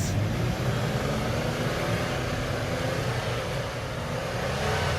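Off-road 4x4's engine running steadily under load as it backs through deep snow, with a steady rushing hiss over it that swells slightly near the end.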